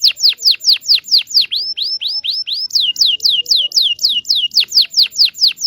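Domestic canary singing a fast trill of downward-sweeping notes, about seven a second. It switches to a short run of rising notes about a second and a half in, then returns to the falling ones.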